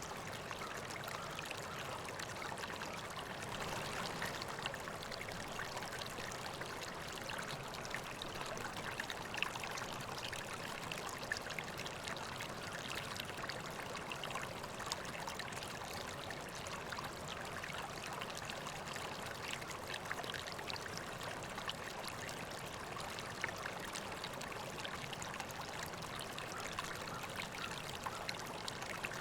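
River water flowing and trickling steadily, with small splashes scattered through it.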